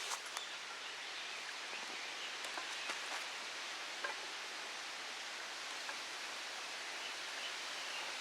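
Wood campfire burning: a steady hiss with a few sharp crackles, several close together near the start and single pops every second or two after.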